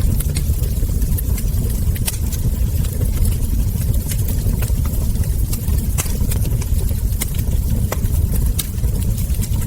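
Wood fire crackling, with scattered sharp pops over a steady low rumble of burning logs.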